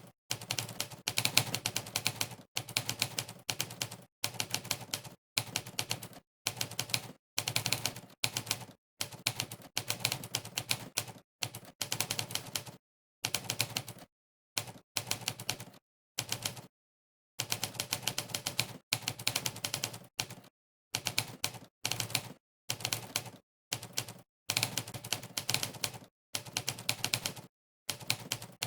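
Typewriter keystroke sound effect from a typing-test website, one sampled typewriter key strike per key pressed, in quick runs of clicks broken by brief dead-silent pauses.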